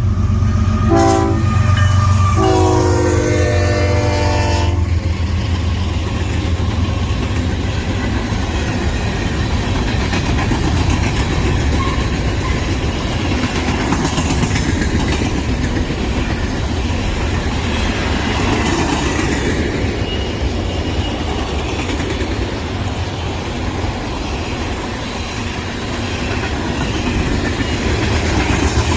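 Locomotive horn sounding as a train passes, in two blasts with a short break about a second in, the horn ending about five seconds in. After that, a steady rumble and wheel clatter over the rail joints as the cars roll by.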